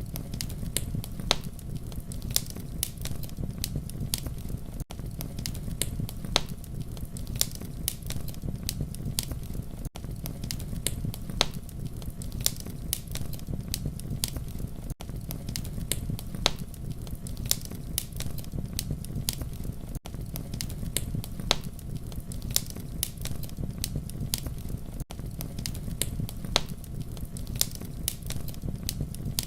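Wood fire crackling and popping steadily over a low, even rumble, with sharp pops several times a second. The sound drops out briefly about every five seconds.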